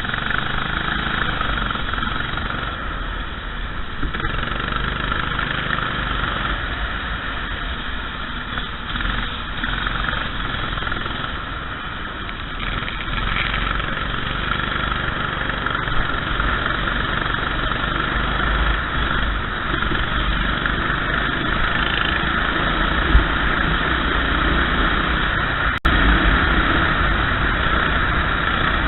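Racing kart engine running under a steady hiss of wind and rain noise, with a sharp click about 26 seconds in.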